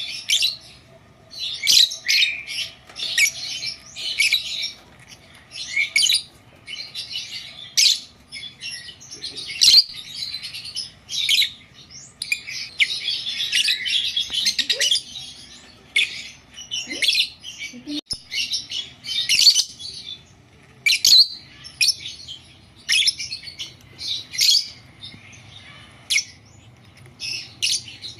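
Fischer's lovebirds (blue mutation) chirping: short, sharp, high-pitched calls in irregular runs, with a dense stretch of chatter about halfway through.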